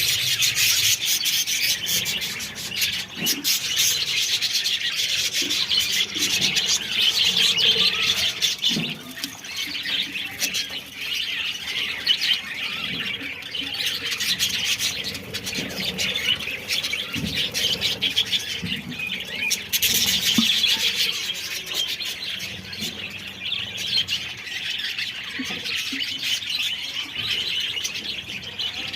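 A colony of budgerigars chattering and chirping together, a dense, continuous scratchy warble with many short chirps.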